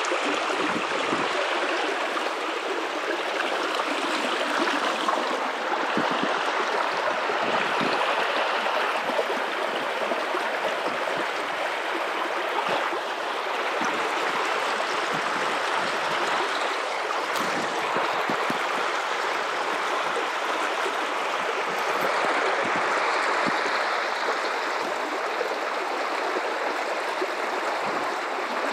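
River water running steadily over rocks: a continuous rushing flow with bits of gurgling and splashing.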